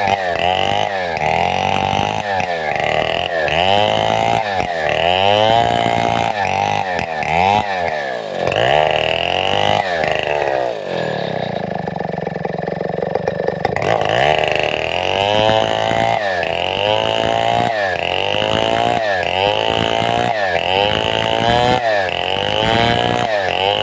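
Large two-stroke chainsaw of the Stihl 070 type (a New West 707 clone) running hard while ripping a log into planks. Its revs dip and recover about once a second. About halfway through it settles briefly at a lower, steadier speed.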